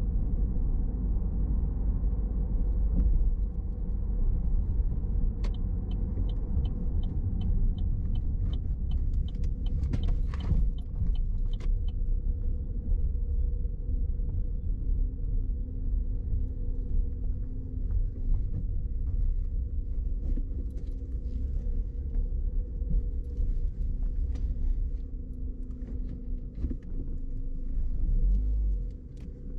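A car's engine and road noise rumbling steadily while driving. For several seconds in the first half there is a regular ticking, about two ticks a second.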